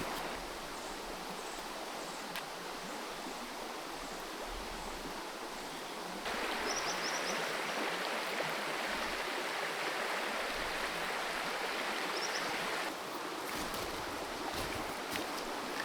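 Creek water flowing in a steady rush. It abruptly grows louder about six seconds in and drops back about thirteen seconds in.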